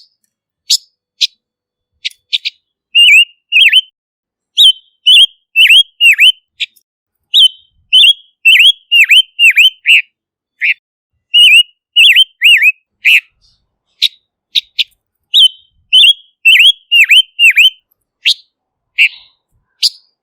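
Silver-eared mesia calling: sharp high chirps, then runs of quick whistled notes that dip down and back up, several a second, before it goes back to scattered chirps near the end.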